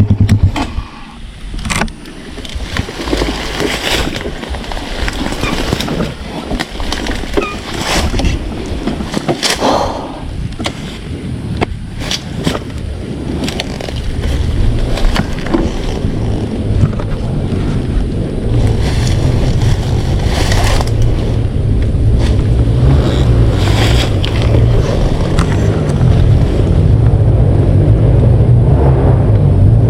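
Trail motorcycle engine on a rough dirt track. It drops off about a second in, the bike clatters and knocks over the ground while the engine runs low, then the engine builds back up to a steady, louder run through the second half.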